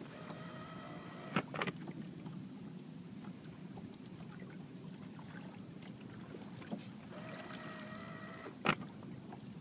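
Minn Kota 55-pound-thrust electric trolling motor run out of the water from its foot controller, whining steadily twice: for about a second at the start, then for about a second and a half near the end. Each run stops with a sharp click, over a low steady hum.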